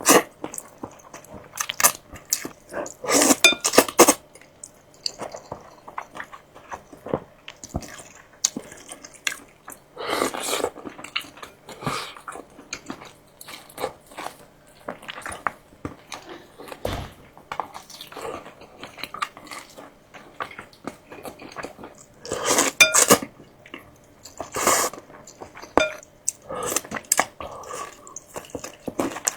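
Close-up eating sounds: chewing and biting in irregular bursts, with occasional light clinks of cutlery against a dish.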